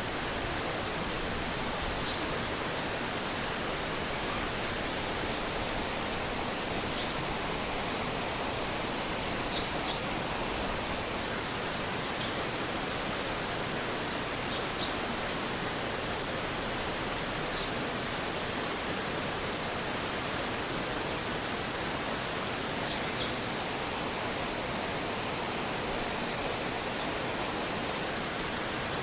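Stream water flowing and splashing in a steady rush, with short, high chirps sounding every few seconds.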